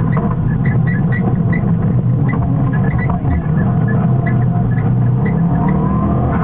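Subaru Impreza rally car's flat-four engine running hard at speed, heard from inside the cabin, with road noise. The engine note dips briefly about three seconds in, then climbs in pitch near the end as it accelerates.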